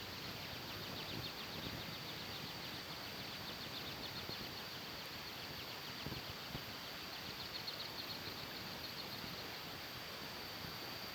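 Steady outdoor ambience: an even background hiss with a continuous high-pitched trill running through it, and no distinct events.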